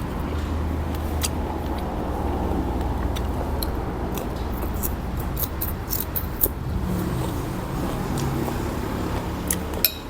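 Eating a bowl of noodle soup: a run of small sharp clicks, such as spoon and chopsticks on the bowl, that bunch together in the middle and again near the end. A steady low hum lies under them.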